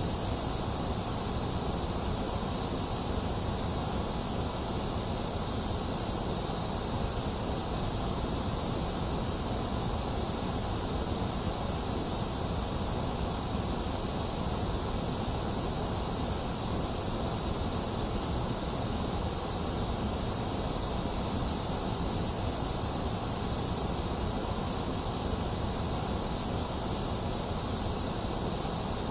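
A box fan running together with steady rain: an even, unchanging rushing noise with a strong high hiss over a low rumble.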